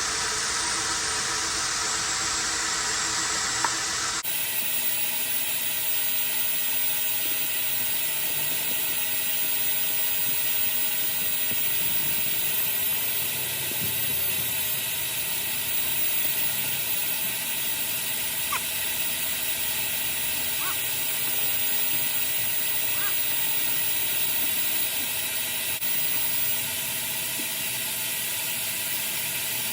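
Coin-operated car wash vacuum running steadily: a constant rush of air with a steady whine. The sound changes abruptly about four seconds in, then holds.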